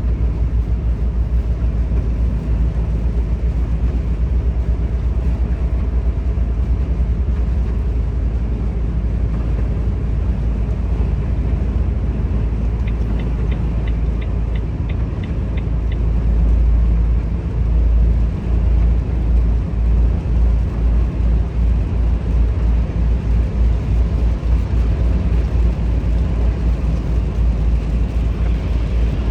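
Volvo FH 460 truck's 13-litre six-cylinder diesel droning steadily on the road with heavy low rumble. About halfway through, a short run of light, evenly spaced ticks sounds for about three seconds.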